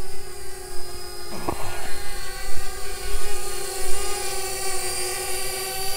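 Parrot Bebop 2 quadcopter's electric motors and propellers whining steadily in flight, one even pitch with many overtones.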